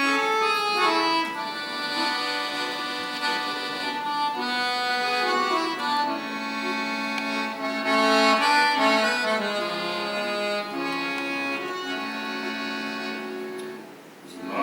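Accordion playing a slow instrumental melody of sustained, held notes and chords, growing quiet briefly just before the end.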